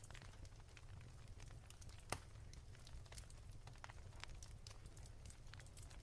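Firewood fire crackling softly, with scattered small pops and snaps and one louder pop about two seconds in, over a low steady rumble.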